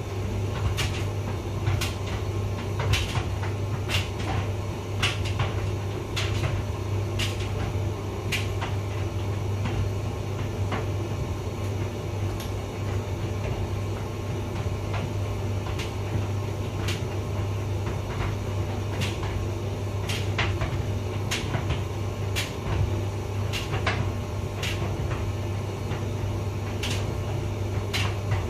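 Hotpoint vented tumble dryer running: a steady low motor and drum hum with irregular clicks and knocks from the tumbling load.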